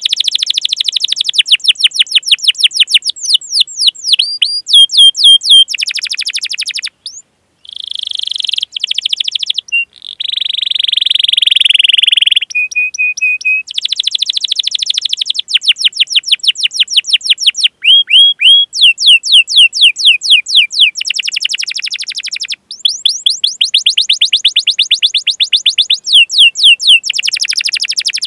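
Domestic canary singing a long rolling song: fast trills of repeated chirps that change phrase every second or two, with a harsh buzzing note held for about two seconds near the middle and a few short whistled notes.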